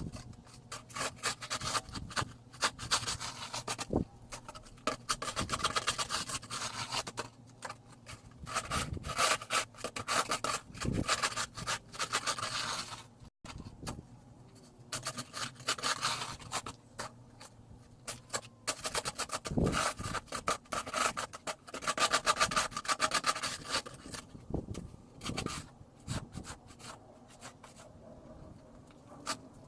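Snow shovel scraping and crunching through packed snow in repeated strokes, each lasting a few seconds with short pauses between them.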